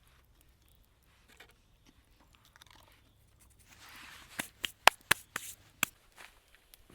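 Someone biting into and chewing crunchy food: near silence at first, then a run of about six sharp crunches a little past halfway.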